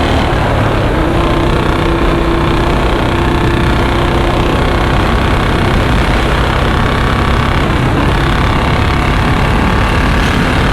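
Royal Enfield Bullet Standard 350's single-cylinder engine at high revs under hard acceleration, its open exhaust note made very loud by an aftermarket C-bend pipe and long Punjab silencer.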